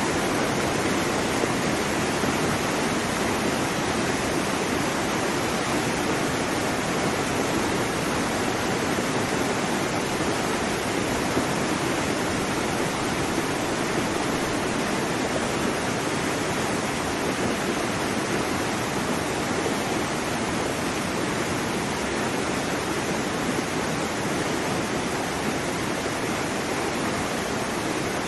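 Waterfall: water falling and splashing in a steady, dense rush, unchanging throughout.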